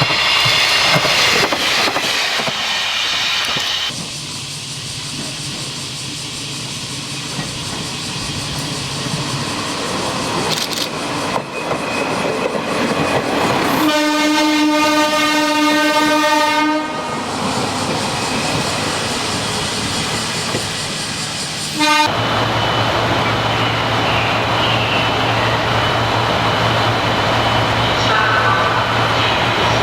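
JNR-era diesel railcar running, with its horn sounding one steady, held blast of about three seconds midway through.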